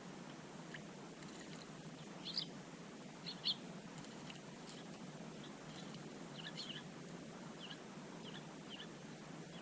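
Small birds giving short, scattered chirps, a dozen or so, the two loudest a little after two and three seconds in, over a steady low background hum.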